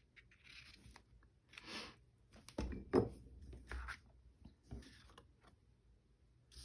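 Paper being handled and rustled in short bursts, with a few light knocks on the tabletop, the loudest about three seconds in.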